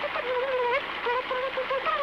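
A buzzy, warbling tone from the cartoon soundtrack, moving in short wavering notes.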